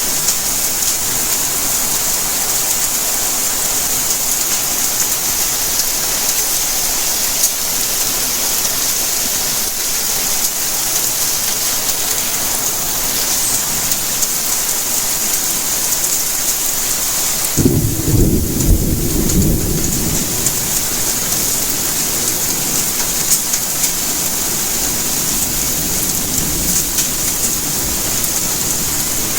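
Steady rainfall. A little past halfway, a low rumble of thunder breaks in suddenly and rolls off over several seconds.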